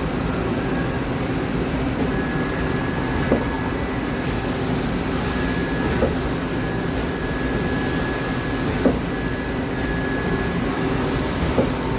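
Steady mechanical hum of a powered-up CNC turning center idling in a machine shop, with a faint high whine held throughout. A few light clicks come every two to three seconds.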